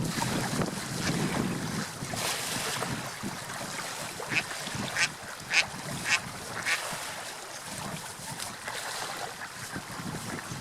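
A bird calling five times in short, sharp notes about half a second apart, over a steady rushing noise like wind and water.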